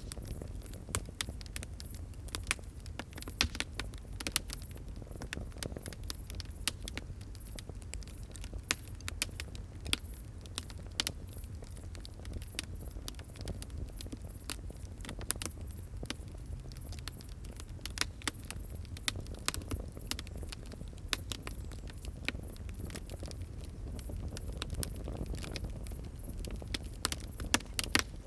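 Fire crackling: many sharp, irregular pops and snaps over a steady low rumble.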